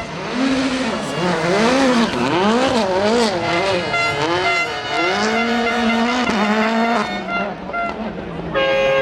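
Rally car engine revving hard, its pitch climbing and dropping quickly over and over as the throttle is worked, then holding high for a couple of seconds before falling away near the end.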